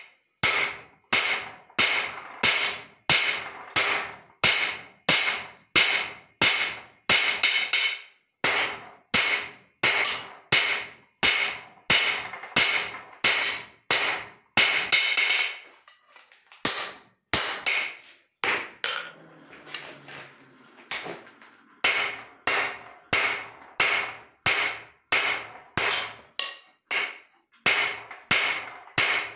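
Hand hammer striking leaf-spring steel on an anvil as it is forged, about two blows a second, each with a short metallic ring. The blows pause for several seconds in the middle, then pick up again at the same pace.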